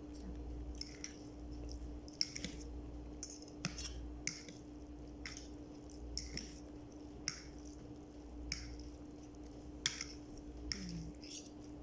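Close-miked eating sounds: irregular short wet smacks and clicks of chewing, roughly one every half second to a second, over a steady low hum.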